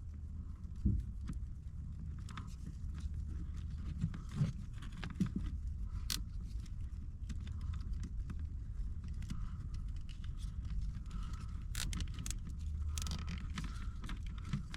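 Plastic zip ties being worked and pulled tight around a bundle of wires, with scattered short clicks and rustles of handling over a steady low hum.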